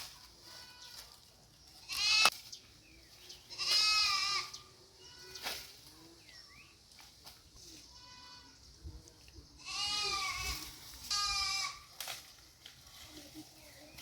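Goats bleating: a series of quavering calls, the loudest about two, four, ten and eleven seconds in, with fainter bleats between.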